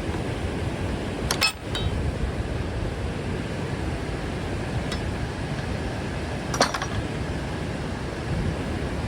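Steady rushing of water and wind on the microphone. Short metallic clinks cut through it: a few about a second and a half in, and one ringing clink near seven seconds.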